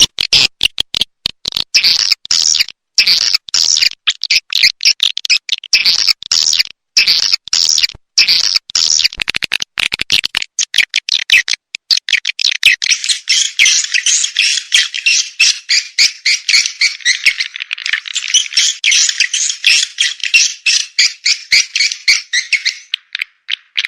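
Swiftlet lure-call recording: swiftlets' rapid, high twittering chatter, in short broken bursts at first and then a dense, unbroken chatter from about halfway. This is the kind of sound played at swiftlet nesting houses to draw the birds in.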